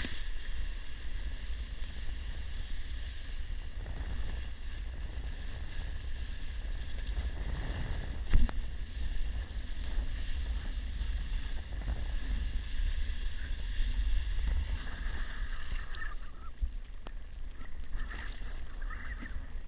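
Wind rumbling on the microphone over the steady wash of big waves, with one sharp knock about eight seconds in.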